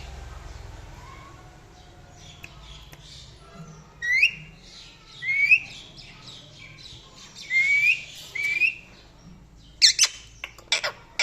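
Parrot giving four short chirping calls that each rise in pitch and then level off, then a quick run of harsh squawks near the end.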